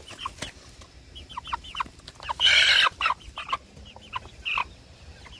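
Broiler chickens clucking and calling in short falling notes as they are caught and moved. About two and a half seconds in there is one loud, harsh burst lasting over half a second.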